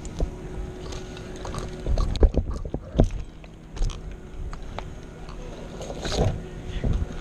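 Scattered clicks, knocks and rustles from a tree climber's metal climbing gear and movements close to the microphone, over a steady background hum.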